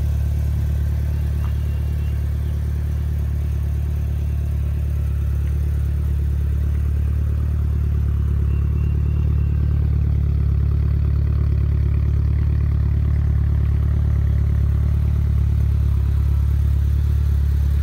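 Mitsubishi Lancer Evolution VIII's turbocharged 2.0-litre 4G63 inline-four idling steadily on a cold start, heard from outside the car.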